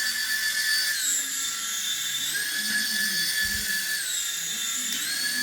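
Toy remote-control helicopter's small electric motor and rotors whining, the pitch falling and rising a few times as the throttle is changed.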